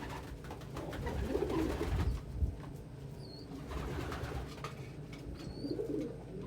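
Domestic pigeons cooing, with a few high, thin peeps from a young pigeon from about three seconds in.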